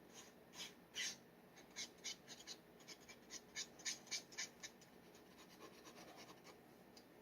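Steel G nib on a dip pen scratching across paper in a quick run of short strokes, about a dozen in the first four and a half seconds, then only faint scratching.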